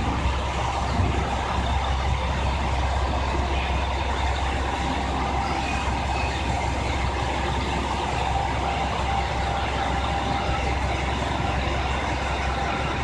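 Diesel engine of a JR Shikoku 2000 series railcar running steadily at idle, a low rumble with a thin steady whine over it.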